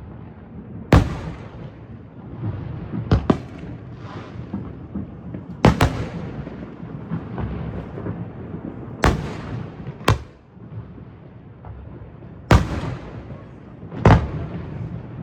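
Aerial fireworks shells bursting at a public display, with a sharp bang every one to three seconds, about seven in all, some in quick pairs. Each bang trails off in a rolling echo, over a steady rumble of more distant bursts.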